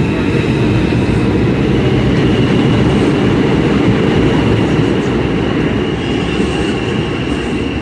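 New York City subway 2 train pulling out of the station: a loud, steady rumble of wheels and motors, with a thin high whine above it that steps up slightly in pitch about two seconds in.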